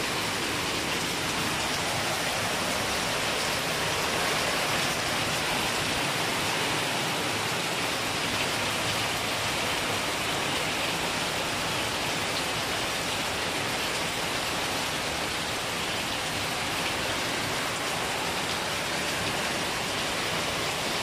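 Heavy rain pouring down steadily, an even hiss of rain on surfaces.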